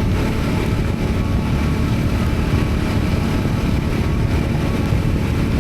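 Triumph Scrambler 400 X's single-cylinder engine running at a steady cruise, mixed with a steady rush of wind noise over the rider's microphone.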